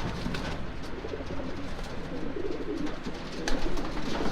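Racing pigeons cooing in a loft, several birds overlapping in a low, continuous murmur, with a few light taps and scuffs.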